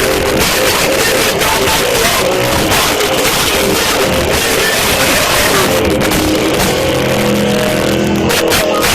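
A live punk band playing loud, with distorted guitars and shouted vocals, recorded with harsh, overloaded sound quality.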